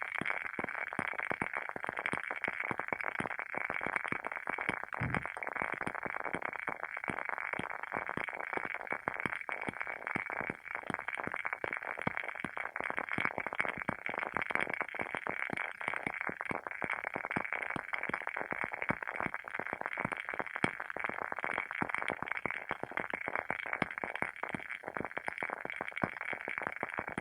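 WoodWick candle's wooden wick burning with a continuous soft crackle, many quick pops close together. A single low thump about five seconds in.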